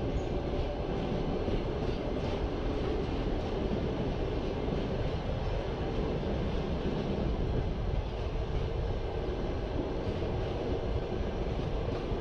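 Passenger train running on the rails: a steady rumble of wheels and carriage.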